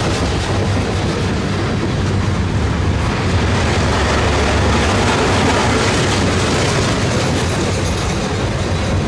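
Freight train of flatcars loaded with open-top containers rolling past: a steady rumble of steel wheels on the rails with some clickety-clack.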